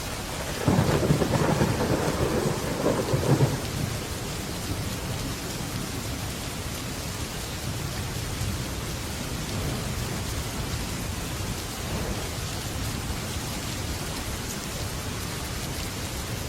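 Heavy rain pouring steadily on a metal roof, with a clap of thunder breaking in about a second in and rumbling for about three seconds before fading back into the rain.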